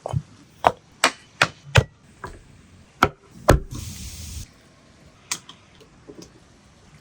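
Sharp chopping knocks on wood: five quick strokes, then two more after a pause, and a last one a couple of seconds later. A brief hissing rush comes just before the four-second mark.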